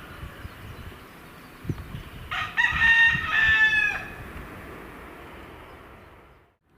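A rooster crowing once, a loud call of under two seconds about two seconds in, over low wind rumble.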